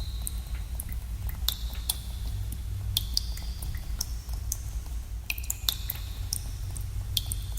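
Water drops falling into a cave pool at irregular intervals, about one or two a second, each a sharp plink with a short ringing tone that echoes in the cave. Under them runs a steady low hum.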